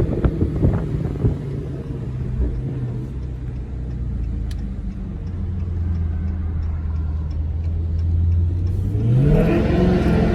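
V8 car exhaust under way: a few sharp pops in the first second, then a steady low drone at cruise, rising in pitch as the engine revs up near the end.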